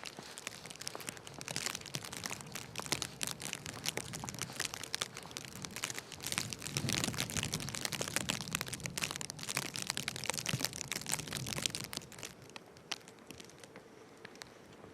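Footsteps crunching in snow: a dense, irregular crackle that fades down about twelve seconds in.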